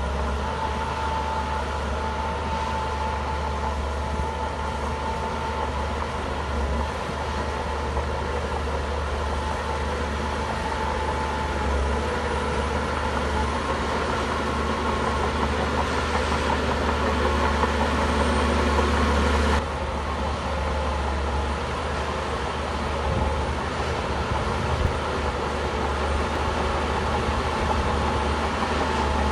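Heavy diesel engine of a Shantui bulldozer running steadily under work, a deep continuous drone with a steady tone over it; the sound builds slightly and then drops abruptly about two-thirds of the way through.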